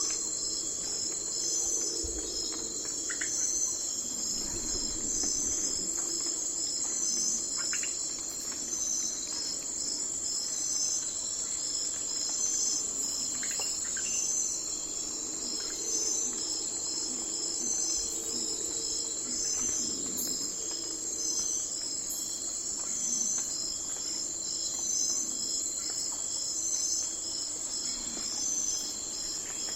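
Night forest ambience: a dense chorus of crickets and other night insects chirping in a steady, evenly pulsing high-pitched trill, with a few faint short chirps here and there.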